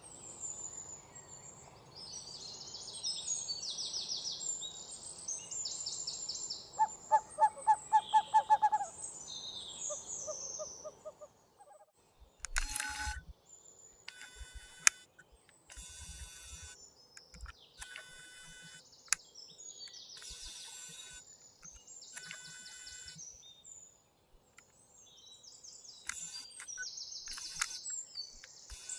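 Wild birds chirping and calling, many short high notes, with a louder run of about eight quick evenly spaced notes roughly seven seconds in. From about twelve seconds in the birdsong comes in separate stretches broken by brief gaps.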